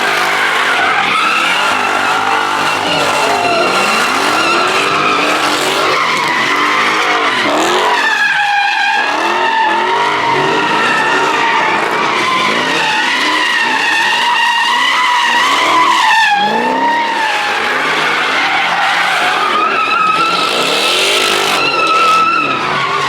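Car tyres squealing without a break through a burnout or donuts, the squeal wavering in pitch, with the engine revving up and down beneath it.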